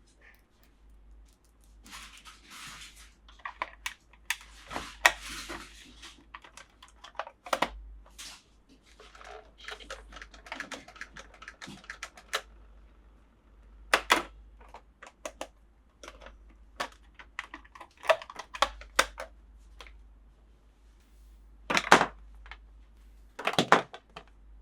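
Plastic toy parts and packaging being handled: irregular clicks and taps with stretches of crinkling, and louder clacks about 14 seconds in and twice near the end.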